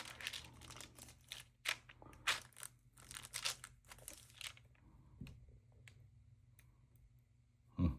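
Stamp album pages being handled and turned: a run of short crinkling rustles over the first four seconds or so, then quieter, with a few light clicks.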